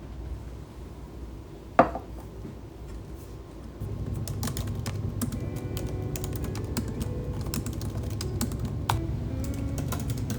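Typing on a computer keyboard: a single loud click just before two seconds in, then from about four seconds in a steady run of key clicks.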